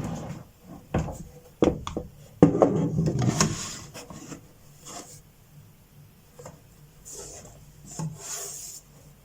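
Socks being rolled and handled, then set into a drawer organizer: fabric rubbing and rustling, with a few light knocks, the loudest about two and a half seconds in.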